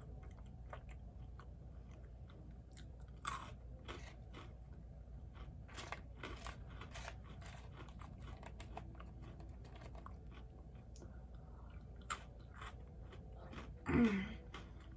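A person chewing and biting food close to the microphone, with many small crunches and wet mouth clicks. A short voiced sound with a gliding pitch comes about a second before the end, the loudest moment.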